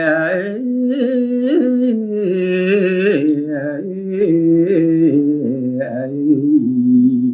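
A solo male voice sings a line of a Balinese geguritan unaccompanied, in the pupuh Sinom melody. The notes are long and ornamented, gliding slowly up and down in pitch with brief breaths between phrases.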